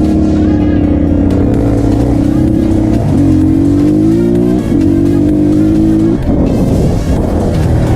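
250cc dirt bike engine running under load at steady revs. The revs climb about three seconds in, drop abruptly a second and a half later, hold again, and the steady note breaks off about six seconds in.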